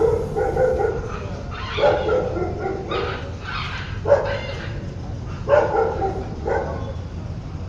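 A dog barking and yelping repeatedly, six or seven short high-pitched calls, over a steady low hum.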